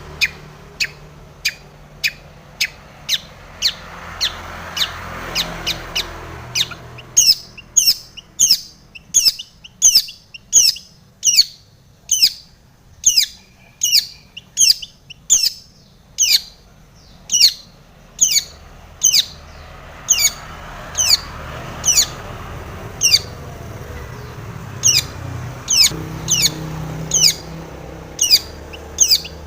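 Long-tailed shrike (cendet) calling: a long, even series of sharp notes, each falling steeply in pitch, about two a second, louder from about a quarter of the way in.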